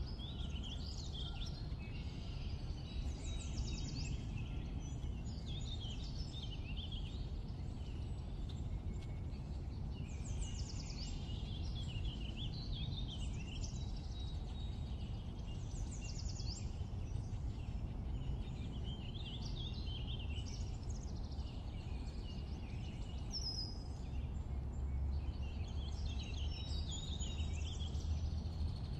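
Steady low rumble with birds chirping repeatedly throughout, short wavy high calls. The rumble grows a little louder near the end.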